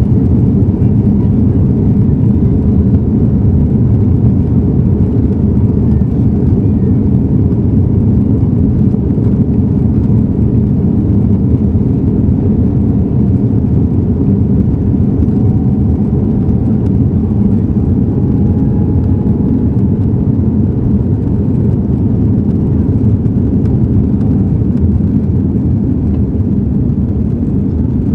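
Airbus A330-200 engines at high takeoff thrust heard from inside the cabin: a loud, steady low roar with rushing air, easing slightly toward the end.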